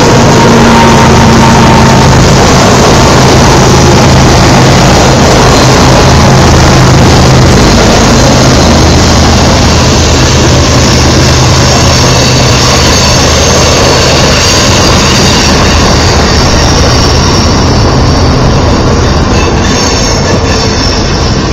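GE Evolution-series diesel locomotives of a BNSF freight train going past close by, their engines droning as they work up the grade. The freight cars then roll by with a steady rumble, and thin wheel squeal rises on the curve in the later part.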